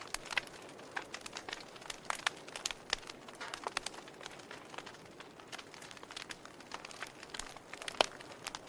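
Wood fire in a fireplace crackling, with many irregular sharp pops and snaps over a soft hiss; one louder pop near the end.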